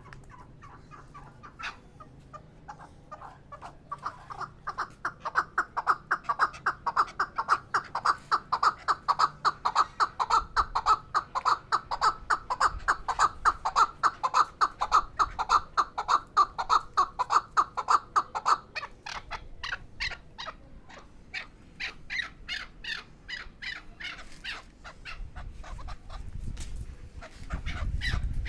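Chukar partridge calling: a long, fast run of clucking notes, several a second, that grows louder about four seconds in. Past the middle it changes to sparser, higher-pitched notes.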